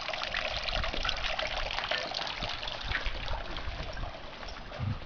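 Running water trickling and splashing steadily, a continuous patter of small droplet sounds.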